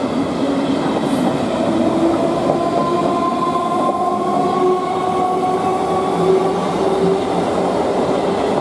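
Electric multiple unit (EMU) local train running past close by: steady loud wheel-on-rail noise under a whine whose pitch slowly rises, as from traction motors while the train picks up speed.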